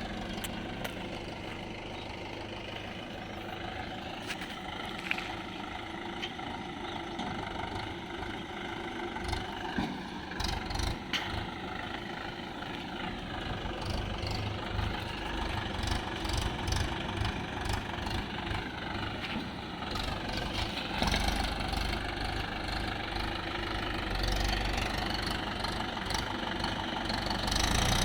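Swaraj XM tractor's diesel engine running steadily with a deep rumble, growing louder in the second half as it labours with a heavily loaded trolley stuck in mud. A few sharp clicks sound over the engine.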